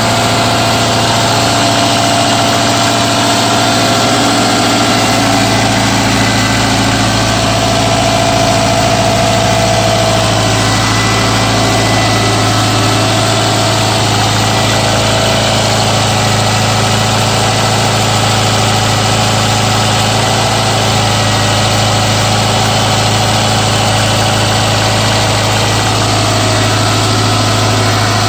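Subaru Forester SG5's 2.0-litre flat-four boxer engine idling steadily after a cold start in −15 °C frost, with a knock that the owner puts down to the fourth cylinder.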